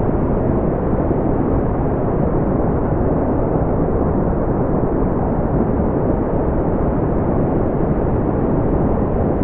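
Brown noise: a steady, deep, even hiss that rumbles low down and thins out toward the top, with no changes or events.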